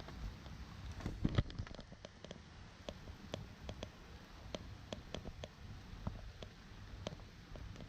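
Rain: irregular raindrops ticking and pattering close to the microphone, with a brief cluster of louder knocks about a second in, over a low rumble.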